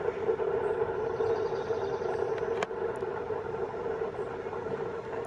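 A steady mechanical hum holding one pitch over faint background noise, with a single sharp click about two and a half seconds in.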